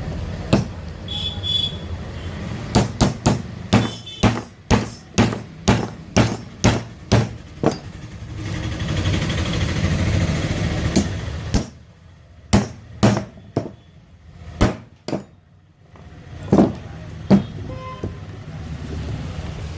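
Sharp knocks of a hand tool striking the mixer grinder's field coil while the burnt old coil is cut away. The knocks come at about two a second, give way to a stretch of steady scraping noise midway, then return as scattered knocks.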